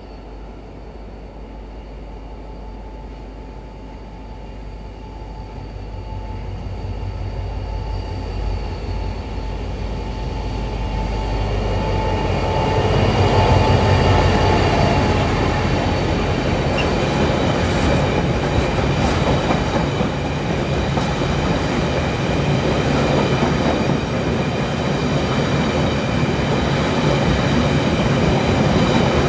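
Irish Rail diesel locomotive hauling a welded-rail train, approaching with its engine hum growing louder and passing about halfway through. The long rake of rail-carrying wagons then rumbles past, wheels clattering on the track, with thin high steady squealing tones over the rumble.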